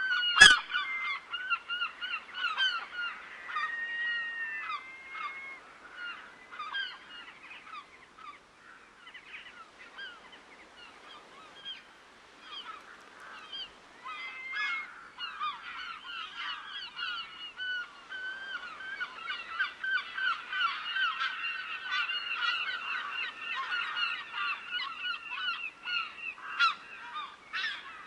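A flock of geese honking, many short calls overlapping. The calling thins out for a few seconds in the middle, then builds again. A sharp click sounds about half a second in.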